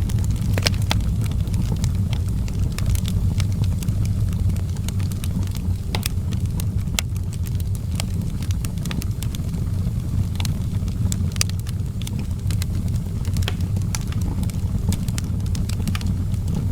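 Outdoor wood fire crackling, with frequent irregular sharp pops and snaps over a steady low rumble.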